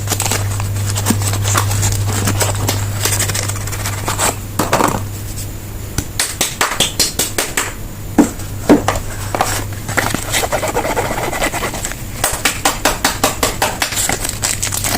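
Bar soaps being unwrapped from their packaging: crinkling, scratching and runs of quick tapping clicks as wrappers and boxes are handled and opened, over a steady low hum.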